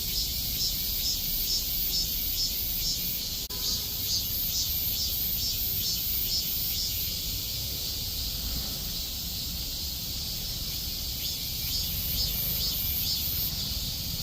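Korean robust cicada (Hyalessa fuscata) singing in repeated high pulses, about three a second. The pulses pause in the middle and start again near the end, over a steady high buzz and a low rumble.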